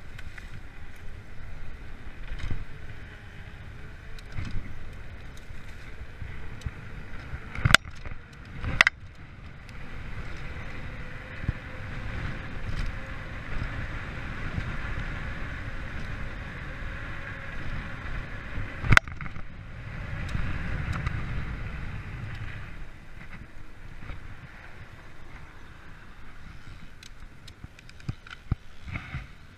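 Freeride mountain bike rolling along a forest trail: a steady rumble of tyres and frame over the ground, with three sharp knocks, two close together about eight seconds in and one near twenty seconds, and a few lighter rattling clicks near the end.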